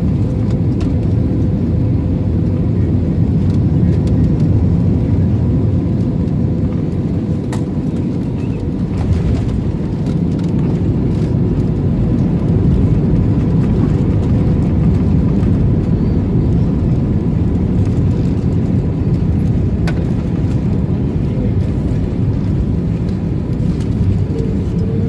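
Steady cabin noise inside an Airbus A321-231 airliner: a low rumble of engines and airflow, with a faint steady whine running through it.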